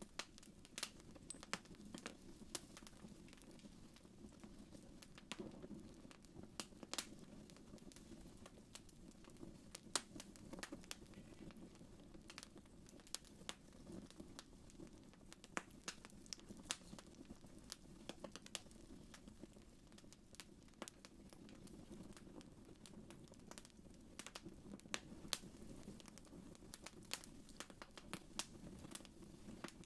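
Wood fire crackling faintly, with irregular sharp pops and snaps over a steady low rumble.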